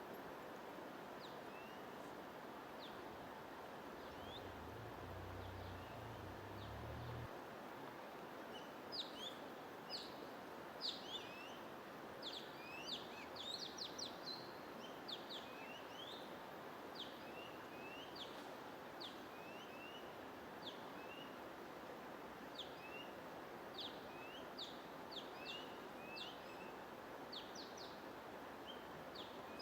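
Birds chirping: many short, quick calls, sparse at first and much busier after about eight seconds, over a steady hiss of white noise.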